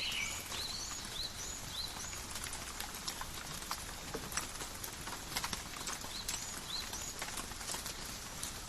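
Light rain in a forest, drops pattering and ticking irregularly on leaves over a steady hiss. A few short high chirps come in a quick series near the start and again about six seconds in.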